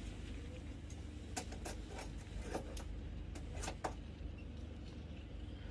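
Coach ambience of a train standing at a station: a steady low hum with scattered light clicks and knocks.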